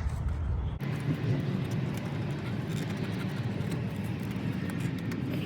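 Low, steady road rumble from inside a moving van that cuts off abruptly about a second in. It is followed by a steady background hum with a few faint small clicks.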